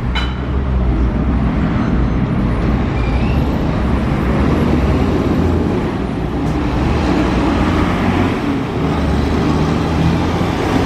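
Road traffic: a steady low engine hum from motor vehicles, with tyre and road noise.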